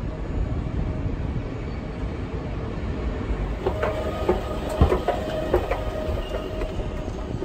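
Railway station platform ambience: a steady low rumble of trains. In the middle comes a short spell of thin squealing tones broken by sharp clicks and knocks.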